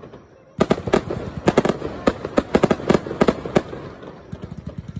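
Small fireworks going off in a rapid string of sharp pops and cracks. The pops start about half a second in, come thick and loud for about three seconds, then thin out to fainter pops near the end.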